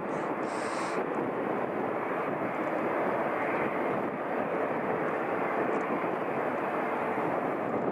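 Jet airliner engines running with a steady, even rush of noise, a faint steady whine coming through in the second half.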